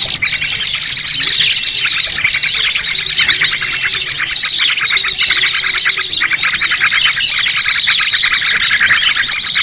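Dense, continuous chirping of small birds, many fast high-pitched chirps overlapping without a break: a bird-lure call of the kind used to draw birds into a trap.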